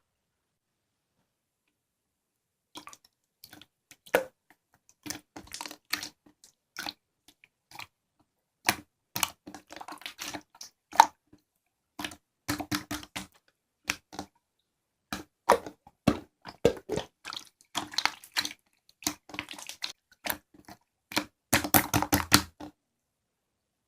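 Toy slime being squeezed and worked by hand: irregular sticky clicks and crackling pops, starting about three seconds in, with a dense burst of crackling near the end.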